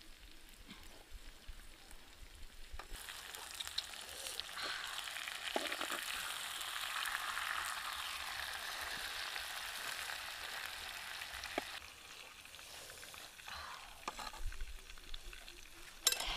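Banana flower pieces frying in a pan over a wood fire, sizzling loudly, stirred and turned with a knife blade with a few light scrapes and clicks. The sizzle swells about three seconds in and dies down around twelve seconds.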